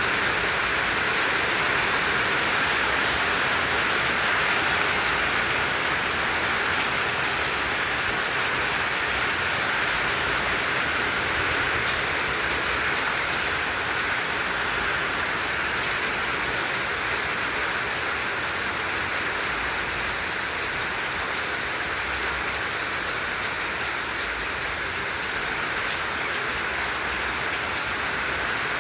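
Heavy tropical rain falling steadily, an even hiss of rain on surfaces with scattered drop ticks.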